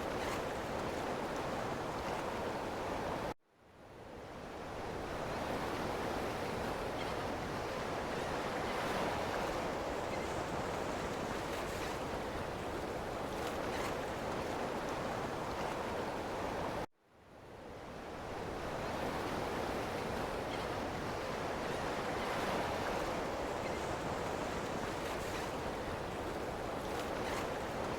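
Ocean waves washing steadily in a continuous surf wash. Twice, about three and a half seconds in and again about seventeen seconds in, the sound cuts out abruptly and then fades back up over a second or two.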